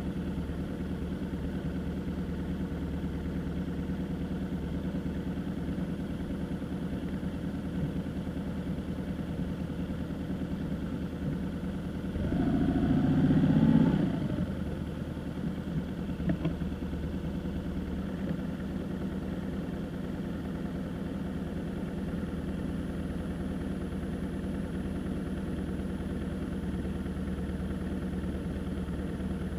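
Car engine and road noise, a steady hum while driving. About twelve seconds in, a louder swell with a falling pitch lasts about two seconds.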